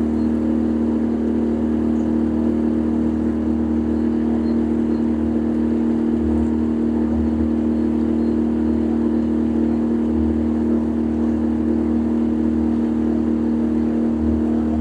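A boat's motor running steadily at an even cruising speed, a constant drone.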